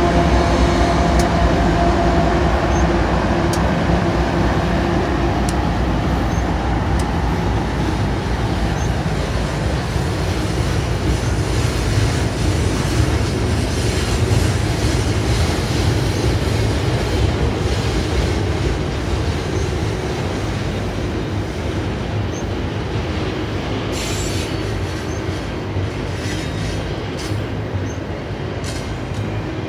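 Freight train of double-stacked container well cars rolling past with a steady low rumble of steel wheels on rail. In the first few seconds the diesel hum of the trailing GE AC4400CW locomotive dies away. Scattered ticks and a brief high-pitched wheel squeal come about 24 seconds in.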